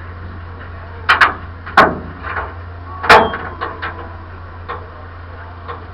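A series of sharp knocks and bangs, two close together about a second in, another near two seconds and the loudest about three seconds in, followed by a few lighter knocks, over a steady low hum.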